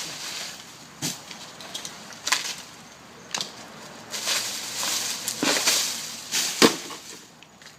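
Rustling brush with several sharp cracks and snaps of twigs and branches, a rustling swell near the middle and a loud snap near the end.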